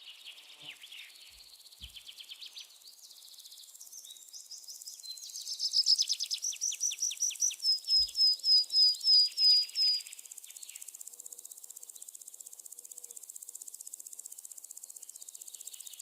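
Outdoor nature ambience: series of high, rapid chirping calls that grow loud about five seconds in and end in a run of evenly spaced short chirps, then stop about ten seconds in, leaving a steady high insect drone.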